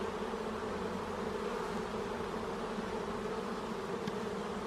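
Honeybees buzzing around an open hive: a steady hum from a large colony.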